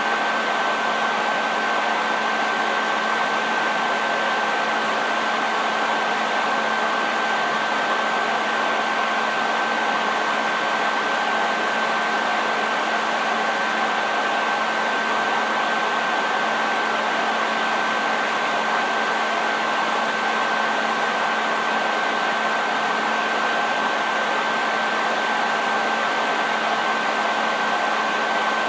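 Hair dryer running continuously: a steady rush of air with a constant high whine and a low motor hum, unchanging throughout.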